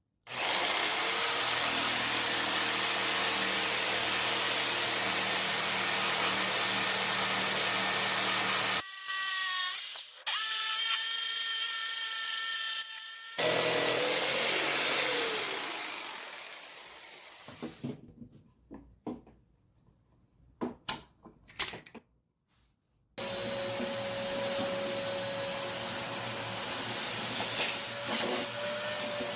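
Electric power tools working wood, in several cut-together runs: a steady run of about nine seconds, a higher whining tool that winds down, a few knocks, then another steady run near the end.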